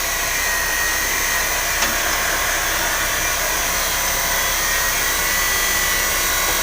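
Steady whir and hiss of a running machine, with a faint click about two seconds in.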